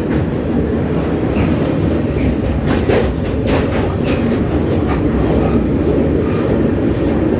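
Passenger train running across a steel girder bridge, heard from inside the coach by the window: a loud, steady rumble with scattered sharp clicks from the wheels.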